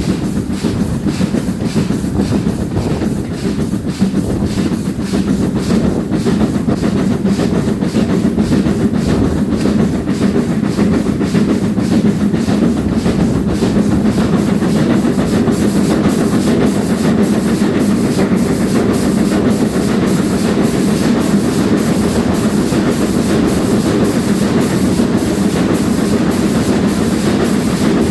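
Steam-hauled train running steadily behind GWR Castle-class 4-6-0 No. 4079 Pendennis Castle, with rhythmic clickety-clack from the carriage wheels.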